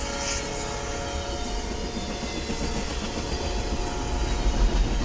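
Double-stack container freight train passing over a level crossing: a steady low rumble of the rail cars on the track, growing a little louder near the end.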